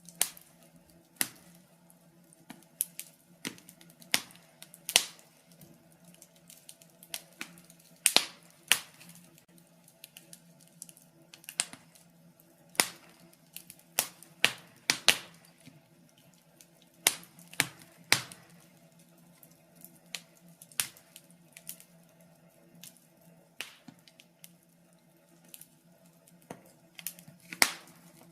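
Wood fire in a fireplace crackling, with irregular sharp pops and snaps, some clustered and some a second or more apart, over a faint low hum.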